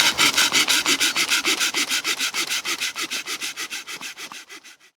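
A hand saw cutting through wood with rapid, even back-and-forth strokes, fading out near the end.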